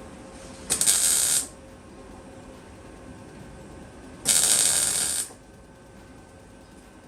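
Gas-shielded MIG welder laying two short weld bursts on steel body panel: one burst starts under a second in, a second, slightly longer one about four seconds in.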